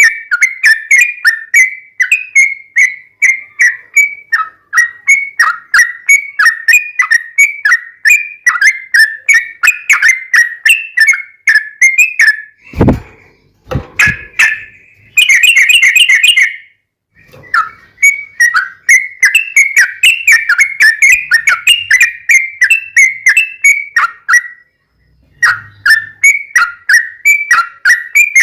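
Yellow-vented bulbul (trucukan) song in long rapid runs of bright chattering notes, about three or four a second. Midway the song is broken by a low thump and a brief harsher burst, with short pauses before it resumes.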